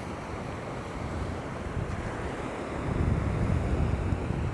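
Wind buffeting the microphone in a steady rush, gusting harder about three seconds in.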